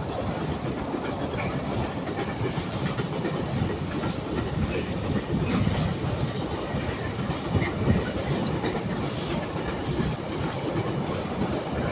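Freight train wagons rolling past at speed, a steady rumble with scattered clicks from the wheels on the track.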